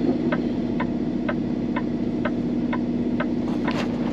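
Turn-signal flasher clicking evenly about twice a second in a Peterbilt 389's cab, over the steady hum of the idling diesel engine. A brief rushing noise comes near the end.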